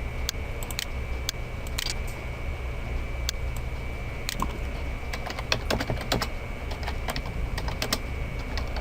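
Computer keyboard being typed on: an irregular run of key clicks over a steady background hum.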